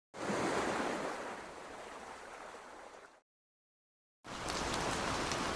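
Ocean waves washing in, louder at first and easing off, cut off abruptly after about three seconds. About four seconds in, a separate clip of rushing noise with small crackles starts and runs to the end.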